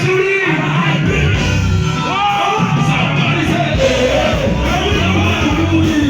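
Live band music through a loud PA, with a singer's voice and shouts over it.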